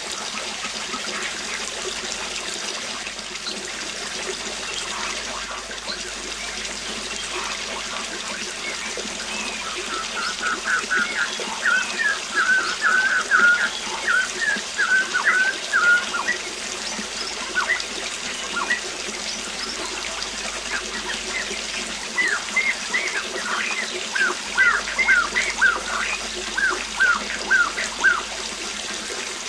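Waterfall rushing steadily, with a songbird singing over it: a quick run of chirps about a third of the way in, then a slower series of short falling notes near the end.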